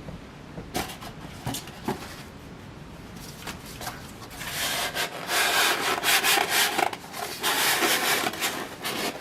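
Packaging being handled and rummaged through: a few small clicks and taps, then louder scratchy rubbing and scraping from about four and a half seconds in.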